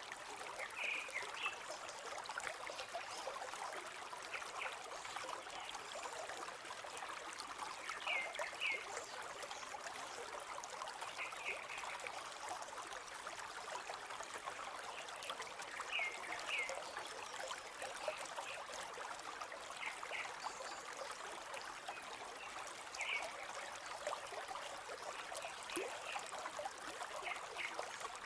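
River water flowing steadily, with short chirps, often in pairs, repeating every few seconds, typical of a small bird calling.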